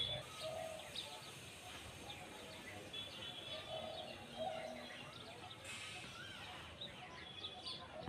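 Outdoor ambience of several small birds chirping and twittering, short high calls scattered throughout.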